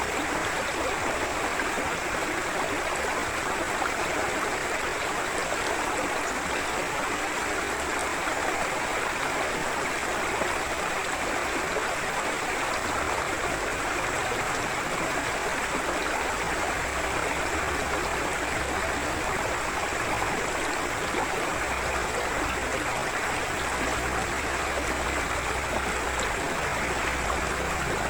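Forest river or stream flowing steadily over stones, a constant rush of water with gurgling.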